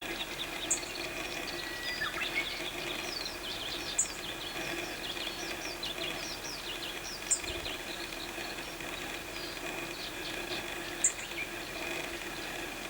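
Birds chirping with many short, quick notes over a steady insect drone. A short, sharp, very high call stands out about every three to four seconds.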